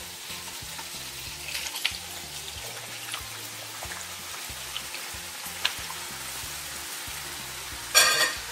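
Chicken and onions sizzling steadily in oil in a pot while chickpeas are tipped in, with soft background music under it. A brief loud voice cuts in near the end.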